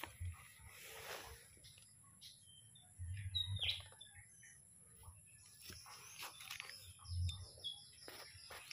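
Faint bird chirps: a short falling call about three and a half seconds in and a few brief high chirps near the end, over scattered light rustling and clicks.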